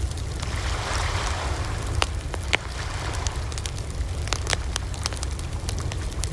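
Wood fire burning: irregular sharp crackles and pops over a steady low rumble of the flames, with a soft rush of flame about a second in.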